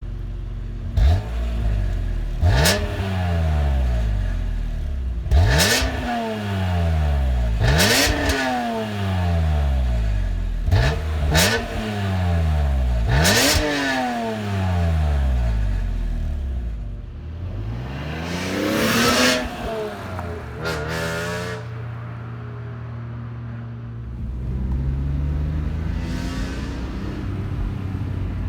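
BMW E46 M3's S54 inline-six revving through a gutted muffler: about six quick throttle blips, each rising sharply and falling back, then a slower, longer rev, a short blip, and a steady low run before the engine speed climbs gently near the end.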